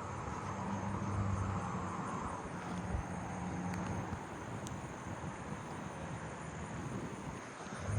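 Steady low hum of distant traffic, with a continuous high-pitched insect trill, typical of crickets, running through it.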